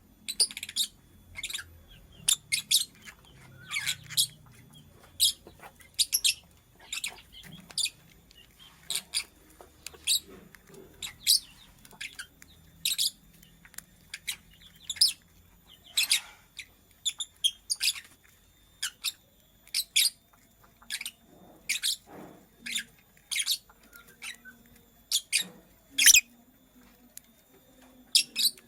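Lovebird giving short, sharp, high-pitched chirps over and over, one or two a second at an uneven pace.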